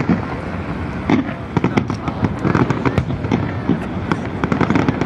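Fireworks going off in rapid, irregular succession: many sharp pops and bangs, several a second, over a constant low rumble.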